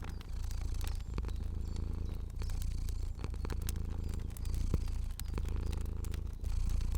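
Domestic cat purring steadily, a low rumble that dips briefly between breaths about once a second. Sharp crackles and pops from a fire are scattered through it.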